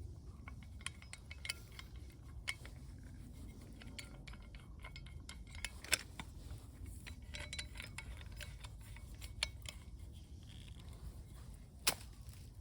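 Irregular light clicks and clinks over a low steady rumble, with two sharper cracks, one about six seconds in and one near the end.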